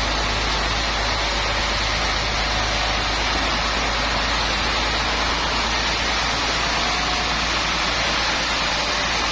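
Sawmill machinery running steadily: a constant loud noise over a low hum, with no break.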